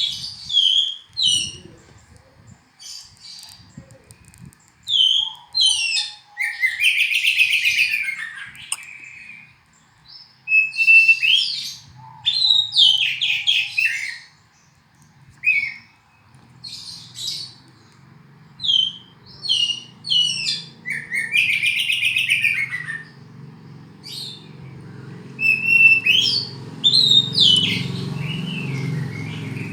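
Oriental magpie-robin (kacer) singing: short, varied phrases of clear whistles and scratchier notes, coming every second or two with brief pauses between. A low hum rises underneath from about halfway.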